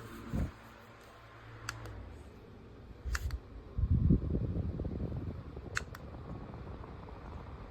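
Handling of a small USB desk fan: several sharp clicks and low bumps and thumps, the heaviest about four seconds in, over a faint steady fan whir.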